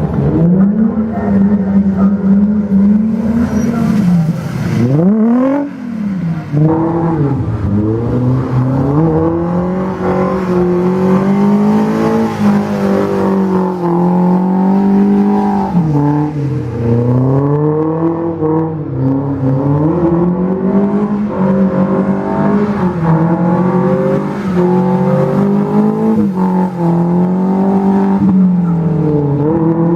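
Car engine held at high revs while drifting, its pitch rising and falling over and over as the throttle is worked, with a sharp drop and quick climb back up about five seconds in.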